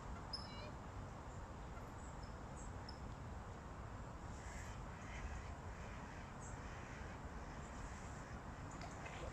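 Birds calling outdoors, a few short harsh calls scattered through, over a steady low rumble.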